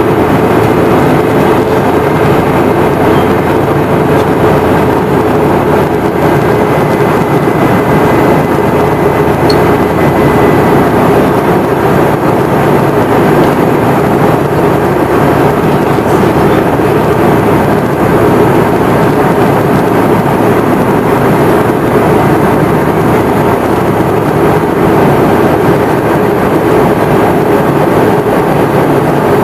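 Cabin noise of a Boeing 717-200 with its rear-mounted Rolls-Royce BR715 turbofans under takeoff power: a loud, steady engine drone and airflow rush with a low hum running through it.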